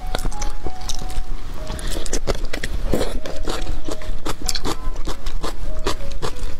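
Close-miked eating of a braised pig's trotter: wet chewing and lip-smacking, a rapid run of sharp, sticky mouth clicks, with faint background music under it.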